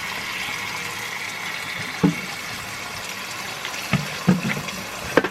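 Water from a tap running steadily into a bowl, filling it, with a few short knocks of the container.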